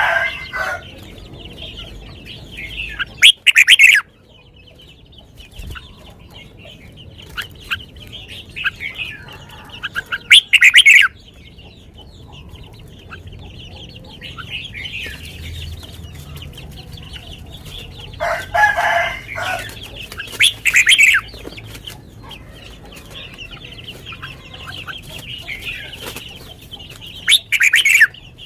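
Red-whiskered bulbul singing short, loud, sweet phrases about every seven seconds, with a faint steady high chirring between them.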